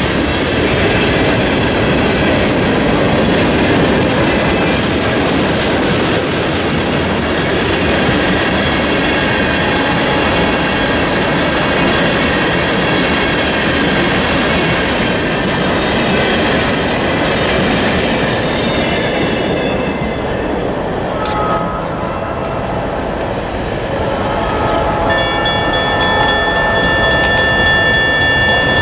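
Covered hopper cars of a freight train rolling past, a steady rumble of wheels on rail with high squealing tones over it. The rolling noise eases about two-thirds of the way through, and a steady horn-like tone comes in near the end.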